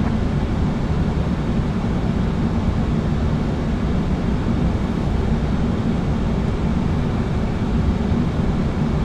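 Steady low rushing noise of an Airbus A330-300 flight deck in flight on approach, with no distinct tones or events.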